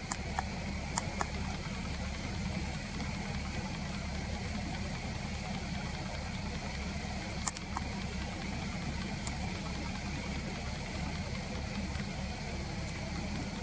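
Steady low rumble like an engine running at idle, with a few short sharp ticks about a second in and again around seven and a half seconds in.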